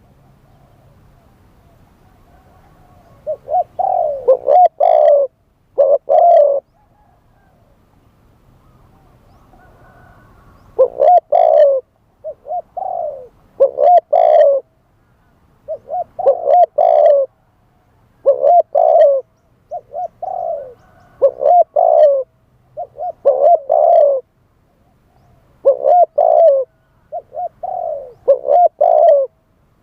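Spotted dove cooing: repeated phrases of low coos, a first group about three seconds in, then after a pause of about four seconds a steady run of phrases one after another.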